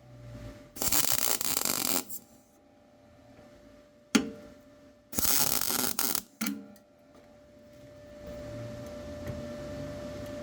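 MIG welder laying short tack welds: a burst of arc crackle about a second long near the start, a sharp click, two more short bursts around the middle, then a steady electrical hum with a held tone.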